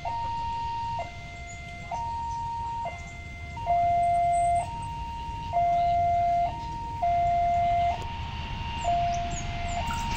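Automatic railway level-crossing warning alarm sounding, alternating a higher and a lower tone about once a second, signalling that a train is approaching. A steady low rumble runs underneath.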